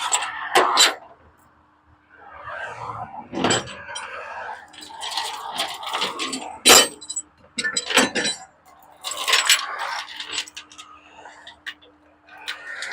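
Highway traffic rushing past close by in repeated swells, with sharp metallic clacks and clinks of metal hardware among them.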